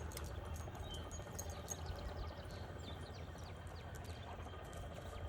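Small birds chirping in a run of quick, downward-slurred chirps from about a second and a half in, with scattered sharp clicks and a steady low hum underneath.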